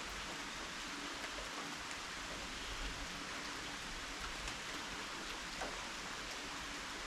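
Steady rain falling: an even hiss with scattered small ticks of individual drops.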